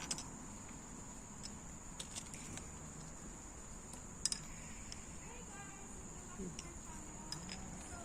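Insects keeping up a steady high-pitched drone, with scattered light clicks and taps over it, the clearest about four seconds in.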